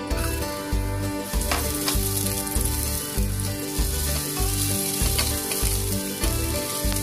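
Sliced fresh ginger sizzling as it goes into hot cooking oil in a nonstick frying pan, the hiss starting right at the beginning and holding steady while the slices are stirred with a spatula.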